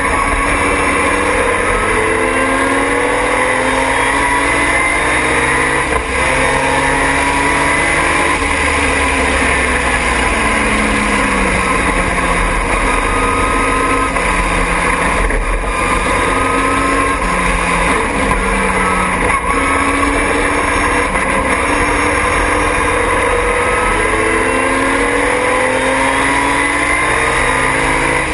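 A Triumph TR6 race car's straight-six engine is run hard. Its pitch climbs, drops at each gear change, then climbs again, over and over through the stretch, with a steady rush of wind and road noise underneath.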